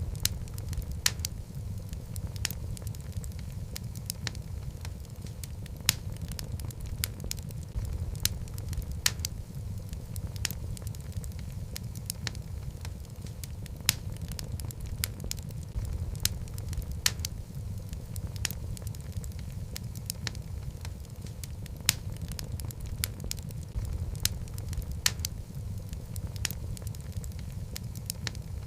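Wood logs burning in a fireplace: a steady low rumble of the flames with irregular sharp crackles and pops, a few of them louder.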